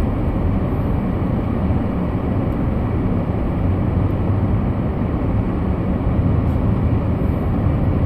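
Steady in-cabin drone of a Ford Fusion driving on snow-covered roads: engine and tyre noise with a low hum and a few faint clicks.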